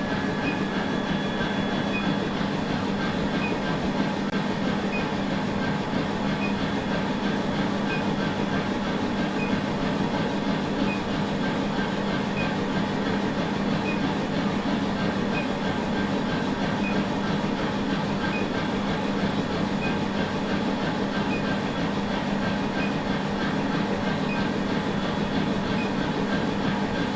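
Steady drone of running blacksmith-shop machinery, with a hum and faint regular ticks about every second and a half; no hammer blows.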